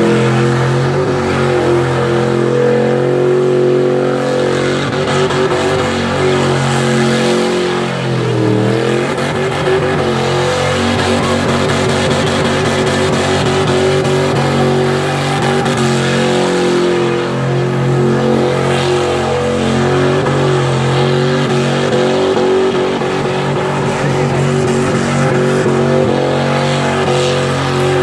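Car engine held at high revs through a burnout, its rear tyres spinning on the pavement. The revs dip briefly and climb back about eight seconds in.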